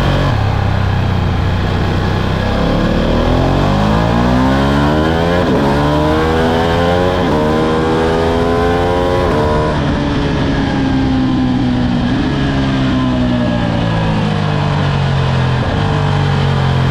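Ducati Streetfighter V2's 955 cc V-twin engine accelerating hard through about three quick upshifts, the pitch climbing and dropping at each shift. It then winds down steadily as the bike slows.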